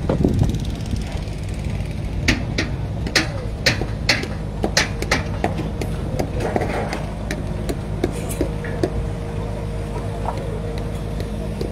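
Construction-site noise: an engine running steadily, with a run of sharp knocks over it, most of them between about two and nine seconds in.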